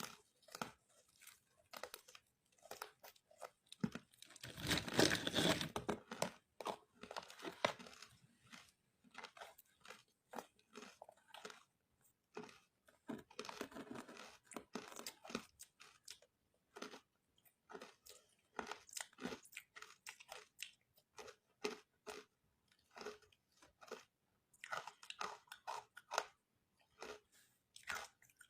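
Close-miked crunching of ice being bitten and chewed: many sharp cracks one after another, densest and loudest about five seconds in, then irregular crunching chews.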